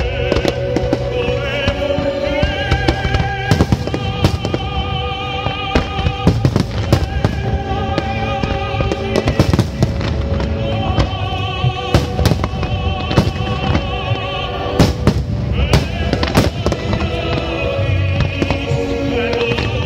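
Fireworks display: aerial shells and ground-fired comets bursting in many sharp bangs at an irregular pace, densest about twelve and fifteen seconds in. Loud music plays throughout as the display's soundtrack.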